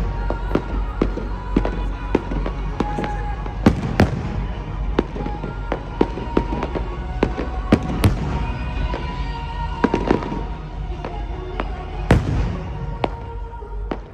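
Aerial fireworks display: sharp bangs and cracks of bursting shells in quick succession, a few standing out louder, over a low rumble, with pop music playing underneath.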